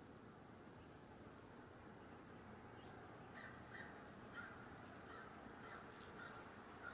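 Faint bird calls over quiet outdoor hiss: a few thin, very high chips in the first few seconds, then a run of short calls repeating from about three seconds in.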